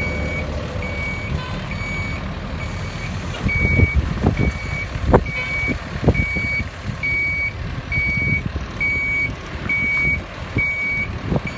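Fire engine backing up: its reversing alarm beeps steadily about once a second over the low rumble of the truck's engine, with a few thumps partway through.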